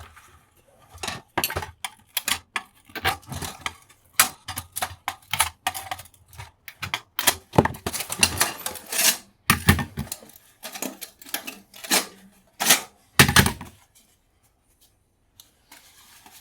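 Irregular metallic clicks, taps and clinks from working a brass lamp frame by hand, bending back the brass tabs that hold its glass panes. The tapping stops a couple of seconds before the end.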